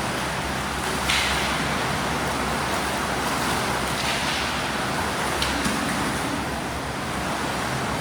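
Steady wash of splashing water from swimmers in a pool, with a few sharper splashes about a second in and again around four and five seconds.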